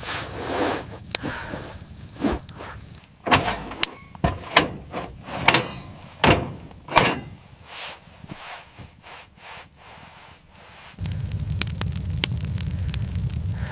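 A run of irregular scrapes and knocks, then from about eleven seconds a steady low rumble with crackling.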